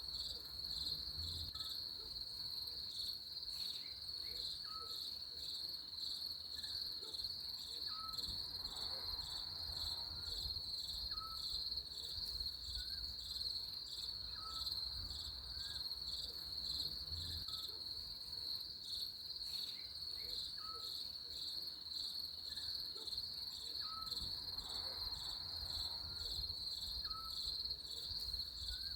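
Crickets chirping in a steady, fast-pulsing trill, with a short lower chirp repeating about once a second.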